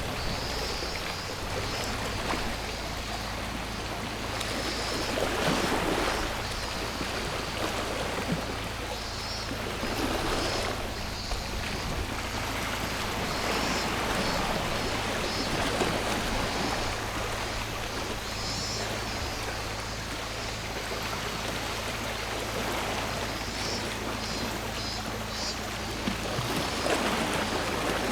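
Sea waves washing onto the shore, swelling and falling back every few seconds, with cicadas trilling in short bouts above them and a steady low hum underneath.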